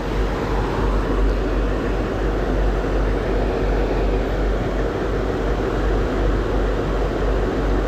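Steady rumbling noise of a moving vehicle, with a strong low hum and no change in level.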